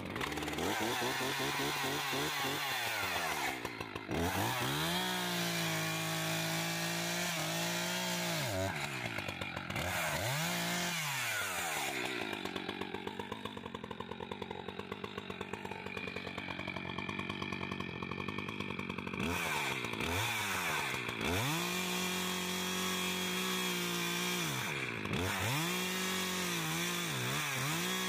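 Two-stroke chainsaw running at high revs, dropping off the throttle and coming back up several times. Through a long middle stretch its note sinks lower and wavers, as it does when the chain is loaded in a cut, here in oak.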